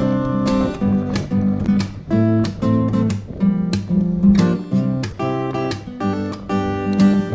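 Background music: acoustic guitar strummed in steady chords.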